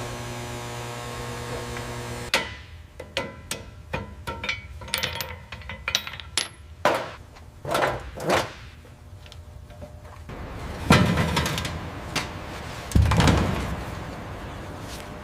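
Workshop tool sounds: a steady machine hum for about two seconds, then a run of sharp metal taps, clicks and knocks, and two loud heavy thumps in the second half.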